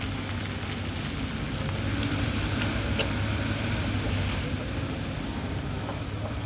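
Hyundai excavator's diesel engine running steadily under work, with a few faint clicks about two to three seconds in.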